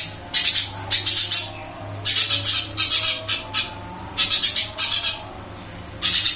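Eurasian tree sparrow chirping actively in quick clusters of sharp, high notes, about five bursts separated by short pauses.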